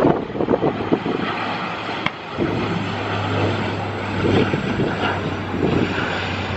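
Airliner engines running, mixed with strong gusty wind buffeting the microphone; a steady low hum sets in a couple of seconds in.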